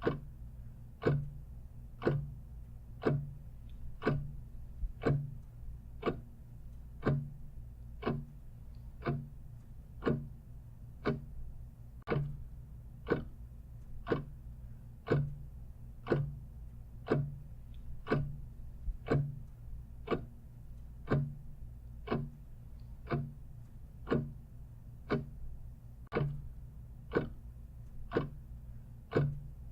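Clock ticking steadily, about two ticks a second, strong and weaker ticks alternating in a tick-tock pattern, over a faint low hum.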